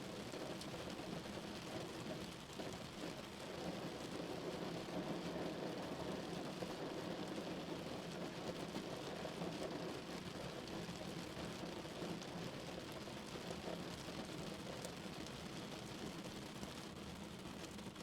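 Steady rain falling on a car's roof and windows, heard from inside the car as a dense, even patter.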